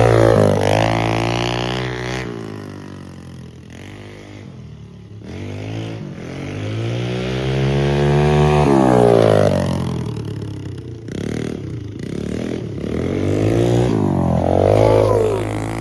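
Pit bike engine with its spark arrestor taken off, really loud, revving up and falling back in about three long swells as the bike is ridden.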